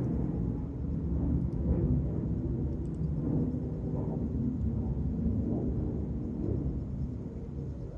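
Solder fume extractor fan running with a steady low whir.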